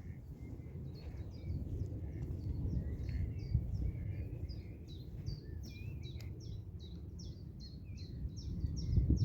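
Wild songbirds singing: many short, high, quickly repeated downward-slurred notes that grow denser toward the end, over a lower warbling song, with a steady low rumble underneath.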